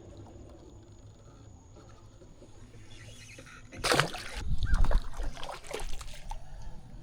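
A hooked crappie splashing at the water's surface as it is reeled in. A loud splash comes about four seconds in, followed by several smaller splashes over the next two seconds or so.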